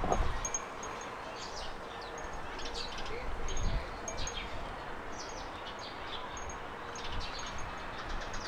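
Garden birds chirping: many short, high chirps and calls from several birds over a steady background hiss. A dull low thump comes right at the start and another a little before the middle.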